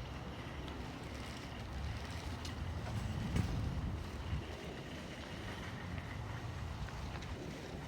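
Low rumble of a jet aircraft flying over, swelling a little about three seconds in.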